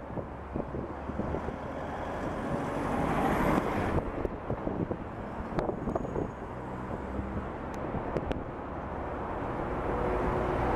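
Road traffic in a city street: a steady rumble of vehicle engines and tyres, swelling as a vehicle passes about three to four seconds in.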